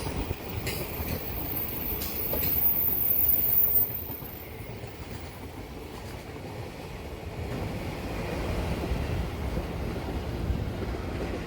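Freight train of container wagons rolling past, a steady rail rumble with a few sharp wheel clicks over rail joints; it is loudest about three to four seconds in, then drops suddenly and runs on steadily.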